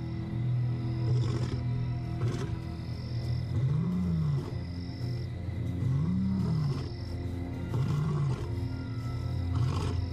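A young male lion roaring: a series of deep calls that rise and fall in pitch. The roars are heard over an orchestral music score.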